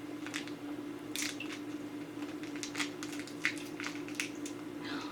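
Plastic wrapper of an individually packed mini ginger chew crinkling as it is handled and opened, in irregular short crackles. A faint steady low hum runs underneath.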